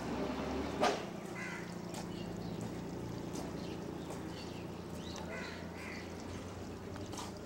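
Outdoor ambience with a few short caw-like bird calls over a steady low hum, and one sharp click about a second in.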